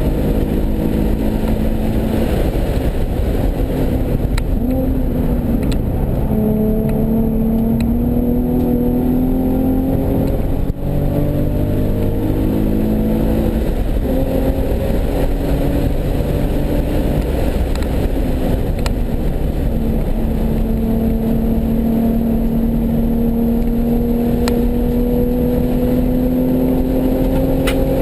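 Nissan 370Z's 3.7-litre V6 pulling hard on a race track, its pitch climbing slowly through long stretches of acceleration and dropping back a few times at lifts or gear changes, over steady road and wind noise.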